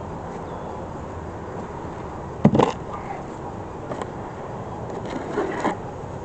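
Wooden beehive parts knocking and clattering as the hive is closed up. There is a sharp loud knock about two and a half seconds in, then lighter knocks near four and five and a half seconds, over a steady background hum.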